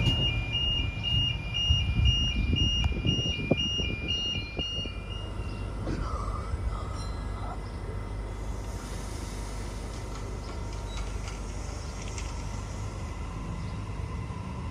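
Level crossing warning alarm sounding an alternating two-tone signal while an electric passenger train passes, the alarm stopping about five seconds in. Then a Sydney Trains Waratah electric train pulling away from a station platform with a steady low running noise.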